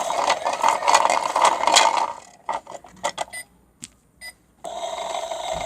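Toy washing machine running with bricks in its drum, a dense mechanical grinding rattle. It stops a little over two seconds in, leaving a few scattered clicks, then starts up again near the end.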